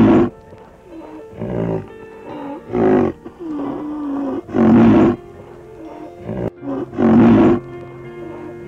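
A large animal giving loud, deep calls, one about every two seconds, each lasting half a second to a second, over background music.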